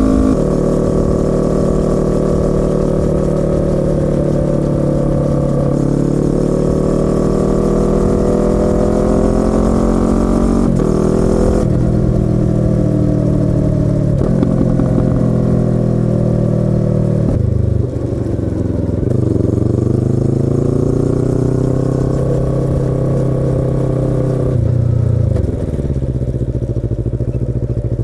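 Yamaha YZF-R25's parallel-twin four-stroke engine and exhaust under way, its pitch climbing slowly as it pulls through a gear, with short breaks at gear changes. In the second half the pitch drops and rises again a couple of times as the bike slows and picks up speed.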